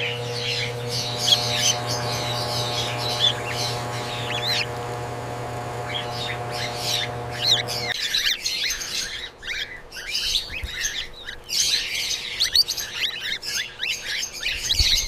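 Many cockatiels chirping and squawking in quick, overlapping calls. A steady machine-like hum sounds under them for about the first eight seconds, then cuts off suddenly.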